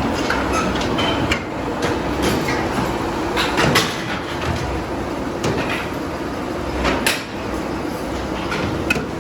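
Tire-factory machinery running with a steady clatter, broken by a few sharp metallic knocks.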